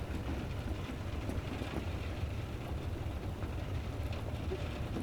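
Steady brown-noise rumble with a soft rain hiss laid over it as an ambient background bed.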